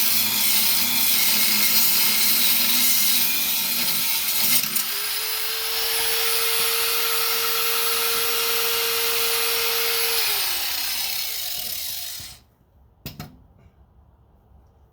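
A power tool cutting or grinding under load for about four seconds, then running free with a steady whine that winds down and stops about twelve seconds in. A couple of sharp clicks follow.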